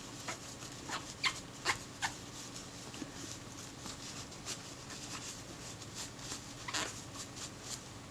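Short, irregular squeaks and clicks as small glass pieces from a Kodak Retina IIIc's finder are wiped clean of lacquer with acetone; the squeaks come in a cluster in the first two seconds and again near seven seconds.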